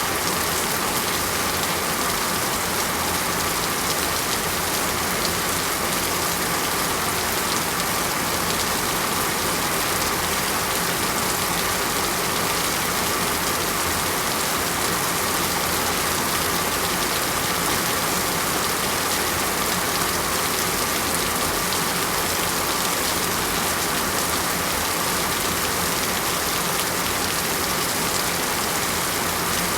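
Heavy rain falling steadily on a surface, a constant even hiss with no breaks.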